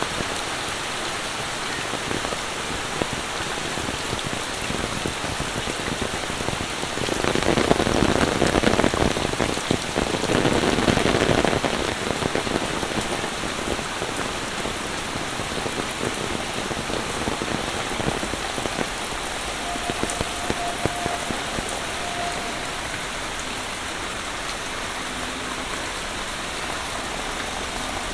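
Steady monsoon rain falling and pattering on surfaces, swelling louder twice around a third of the way in.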